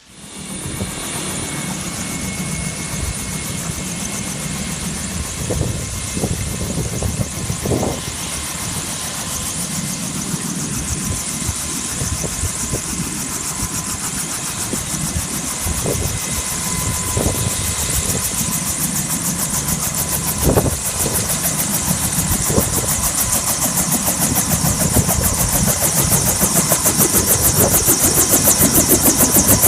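An engine running loudly and steadily. It comes in abruptly, and a fast, even pulsing grows stronger toward the end.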